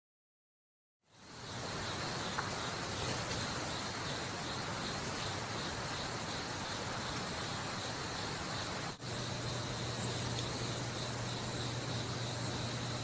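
Outdoor forest ambience: a steady hiss with insects chirping in an even, high-pitched pulse. After a short break about nine seconds in, a low steady hum joins the same background.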